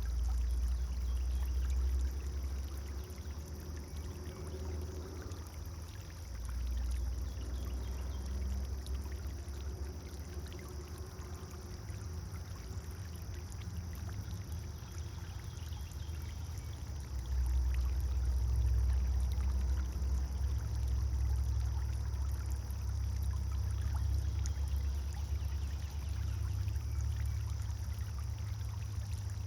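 Pond fountain's water pouring and splashing steadily, over a low rumble that swells and eases.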